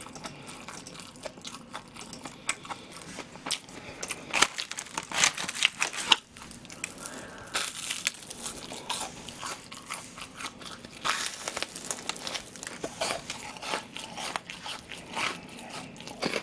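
Crunching bites and chewing of a very crispy deep-fried pork cutlet (tonkatsu), the breading crackling with each bite. The loudest crunches come around five seconds in and again around eight and eleven seconds.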